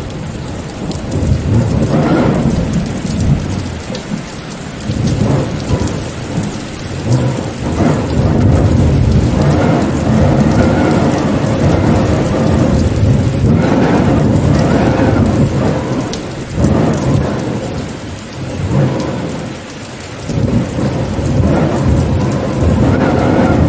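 Rainstorm: steady rain with a deep rumble underneath that swells and fades several times.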